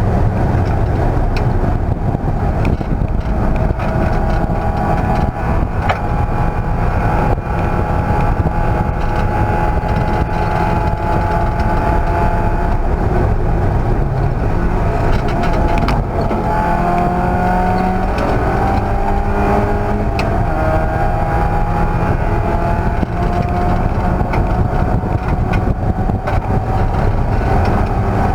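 Race car engine running hard on track, its pitch climbing and falling with acceleration and lifts, over a dense low rumble.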